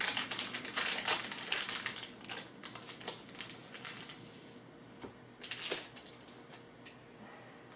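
Trading-card pack wrapper crinkling as it is torn open and handled: a dense run of crackles for the first four seconds or so, then one more brief crinkle past the halfway mark.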